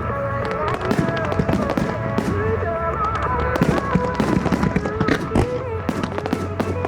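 Fireworks bursting and crackling in rapid, irregular succession over pop music with a singing voice played through the venue's loudspeakers.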